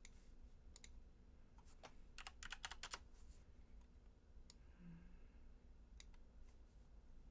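Faint computer keyboard keystrokes and clicks, with a quick run of keys about two to three seconds in and single clicks scattered around it, over a low steady hum.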